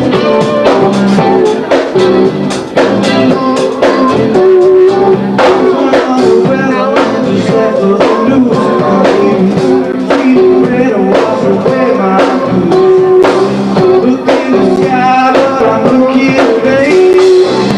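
A band playing a blues-style rock song, with drum kit and guitar keeping a steady beat.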